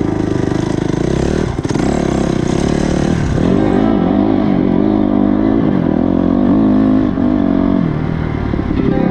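Honda CRF250R's single-cylinder four-stroke engine being ridden hard, its pitch rising and falling as the throttle opens and closes, with short dips between pulls.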